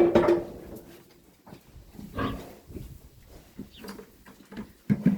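A pig grunting in short bursts: loudest at the start, again about two seconds in, and twice in quick succession near the end.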